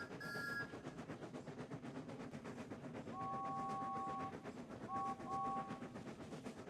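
Steam engine whistles over a steady, rhythmic running train sound. A higher two-note whistle toots twice at the start. A lower two-note whistle then gives one long blast about three seconds in and two short toots near the end.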